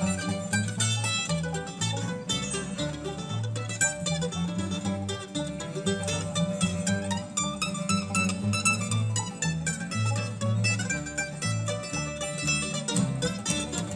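Bluegrass band playing an instrumental break: a fast picked string lead over rhythm and low bass notes, with no singing.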